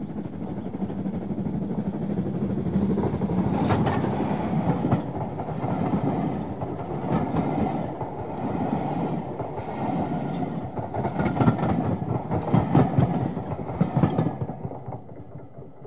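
Train carriages passing close by, the wheels rumbling and clattering over the rail joints. The sound fades out near the end.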